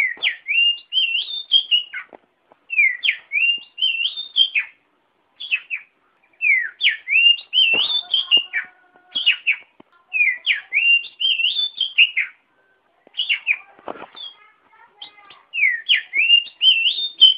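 Oriental magpie-robin (kacer) singing: repeated phrases of clear, slurred up-and-down whistles, each phrase one to two seconds long with short pauses between.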